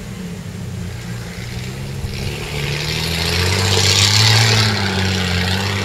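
Off-road vehicle's engine running under light throttle, its pitch rising a little, as the vehicle drives through a creek; a rush of splashing water builds from about two seconds in, is loudest near the middle, and dies away near the end.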